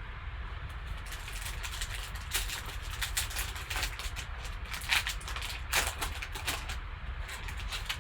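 Cardboard and wrapper packaging rustling and crinkling in short scratchy bursts as a sports card box is opened and its cards unwrapped, over a steady low hum.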